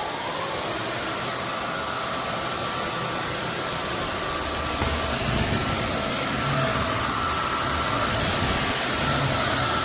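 Roborock F25 ACE cordless wet/dry vacuum running steadily: an even rushing noise with a faint high whine, and a deeper, uneven rumble joining from about five seconds in.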